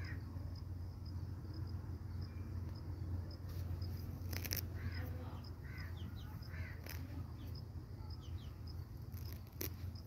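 Three short bird calls around the middle, heard over a steady low hum and a faint high tick repeating about twice a second, with a few sharp clicks.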